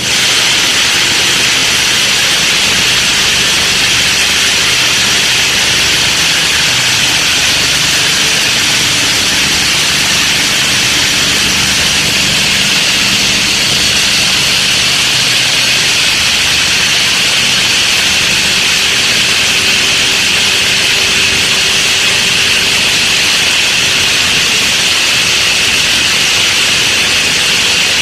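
Animal feed grinder-mixer machine running: a loud, steady noise with a faint low hum underneath.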